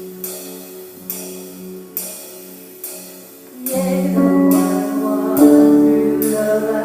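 Instrumental intro of a worship band: a sustained chord with a light percussion tick about once a second. Just over halfway through, guitars and a bass come in and the music grows fuller and louder.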